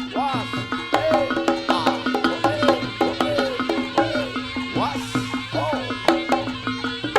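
Live Javanese jaranan ensemble music: dense hand-drum strokes over steady ringing gong and metallophone tones, with a melodic line that slides up and down in pitch.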